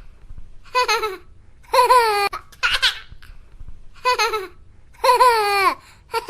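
A baby laughing: a string of short, high-pitched giggling bursts, several of them sliding down in pitch.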